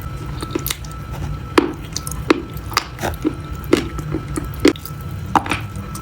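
Close-miked crunchy food being bitten and chewed: a run of crisp, irregular crunches, roughly one or two a second, with soft wet chewing between them.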